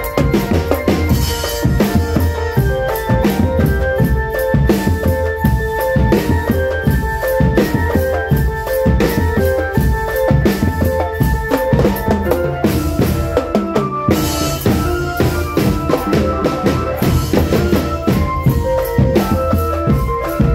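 Marching drum band playing: a steady beat on bass and snare drums, with a melody of short pitched notes over it.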